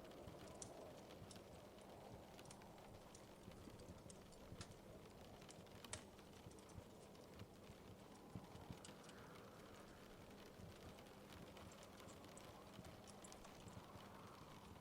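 Quiet wood fire crackling in a fireplace: scattered sharp snaps and pops at irregular intervals over a soft steady hiss.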